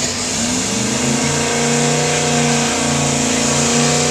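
Car engine revved hard and held at high revs for a burnout, the revs climbing in the first second and then holding with a few brief dips.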